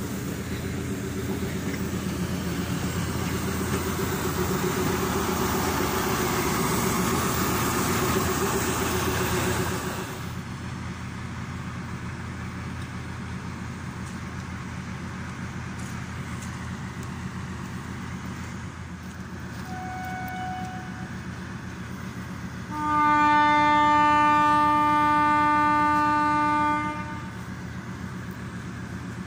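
Passenger coaches rolling past close by, wheels rumbling and clattering on the rails, for about the first ten seconds. After that a locomotive engine runs steadily, and the locomotive gives a short horn toot followed a couple of seconds later by one long, loud horn blast of about four seconds.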